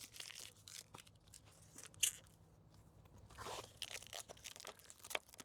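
Backing film being peeled off the 3M adhesive tape on a plastic window rain guard: faint, scattered crackling and tearing rustles, with a sharper snap about two seconds in.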